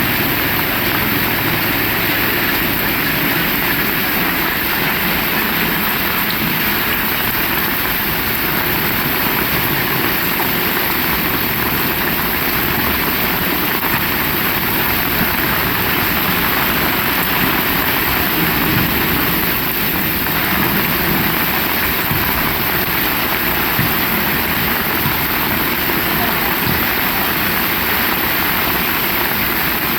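Heavy rain falling in a steady, even hiss with no thunder.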